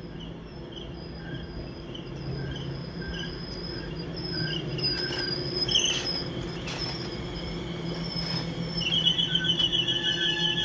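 Elizabeth line Class 345 electric train running in along the platform: a steady low electric motor hum with short high-pitched wheel squeaks, growing louder as the train comes past. About nine seconds in, a fast pulsing squeal sets in and is the loudest sound.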